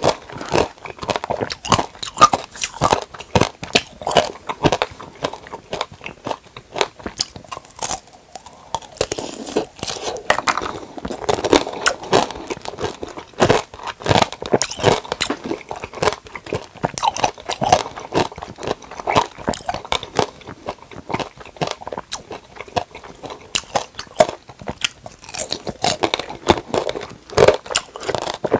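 Biting and chewing mandarin tanghulu: the hard sugar-candy shell cracking and crunching between the teeth over and over, with a short lull about eight seconds in.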